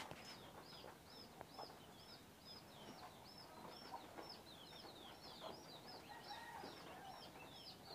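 Faint, high chirps of a bird in the background, repeated steadily about three times a second.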